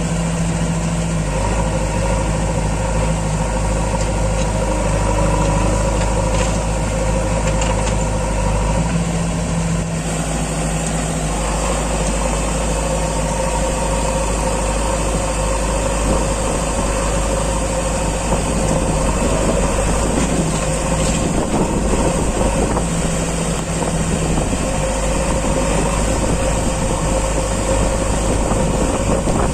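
Tractor diesel engine running steadily, its note changing about ten seconds in.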